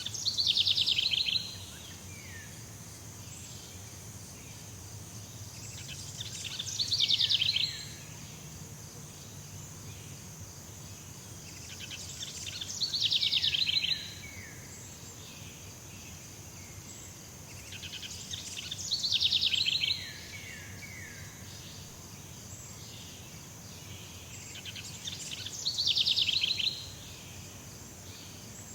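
Jungle ambience: a steady high insect hum, with one animal's call repeated five times, about every six seconds. Each call swells over about a second into a loud trill, stops abruptly, then trails off in a few quick falling notes.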